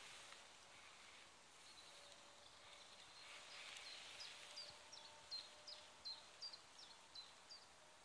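A songbird singing faintly: from about halfway in, a run of about ten short, high notes that each slide downward, roughly three a second, over quiet woodland background hiss.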